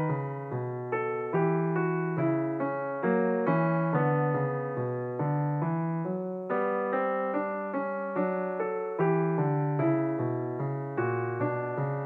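Slow background piano music: single notes and chords struck about twice a second, each left to fade.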